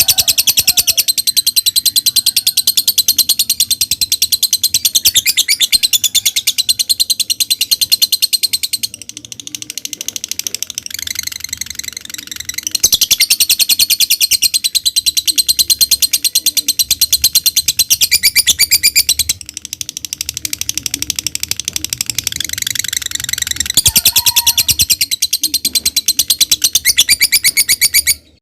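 Lovebird singing in the 'ngekek' style: a long, rapid, high-pitched chattering trill of very fast repeated notes. It goes on in long bouts, softer for a few seconds twice, and cuts off just before the end.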